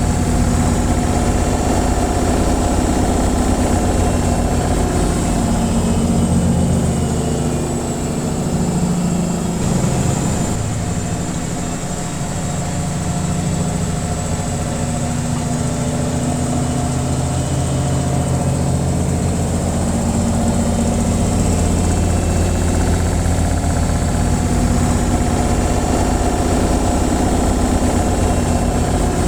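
Washing machine on its spin cycle: a steady low hum and whir from the spinning drum and motor, which dips a little and shifts in pitch about a third of the way in, then settles again.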